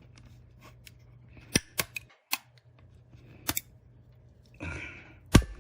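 Plastic latch clips of a Seagate Backup Plus hard drive enclosure snapping as the case is pried apart: several sharp cracks and clicks at uneven intervals, the loudest near the end.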